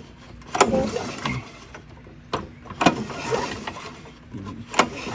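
Briggs & Stratton 190cc mower engine cranked over by its recoil starter cord, pulled several times in quick succession. Each pull starts sharply and runs down over about a second without the engine firing. It is being turned over to check for spark.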